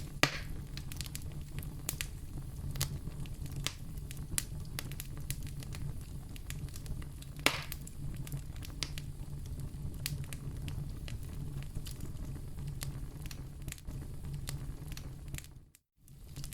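Wood fire crackling in a fireplace: a steady low rumble of flames with frequent sharp crackles and two louder pops, one just after the start and one about halfway through. The sound cuts out for a split second near the end.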